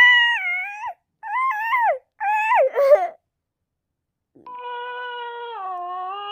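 High-pitched, wavering, cat-like wailing cries: three short ones in the first three seconds, then a pause and one long, lower, held wail.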